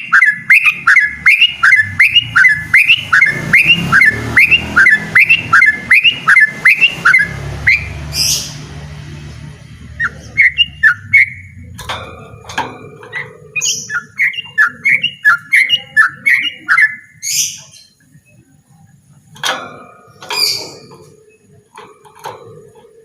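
Yellow-vented bulbul singing loudly: a fast run of repeated notes, about two or three a second, for the first seven seconds or so. Then comes a rising call, followed by further choppy phrases and scattered calls.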